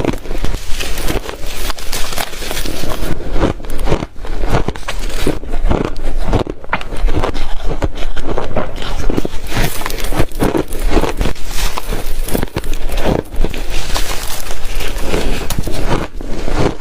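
Reshaved refrigerator ice being chewed close to the microphone: a dense, irregular run of loud crunches and crackles, with no break.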